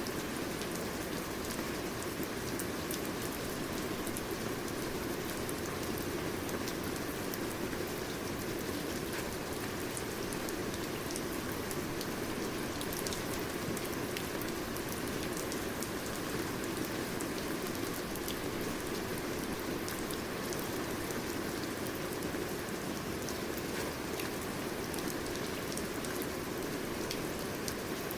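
Steady rain falling, with the fine ticks of individual drops striking a surface.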